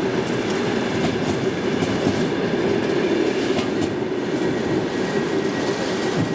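Express passenger train hauled by a ChS7 electric locomotive rolling past at speed: a steady loud rumble of steel wheels on the rails, with occasional sharp clicks.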